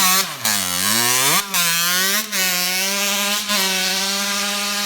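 Dirt bike engine revving: its pitch falls and then climbs again, then holds steady at high revs, with a few brief drop-outs along the way.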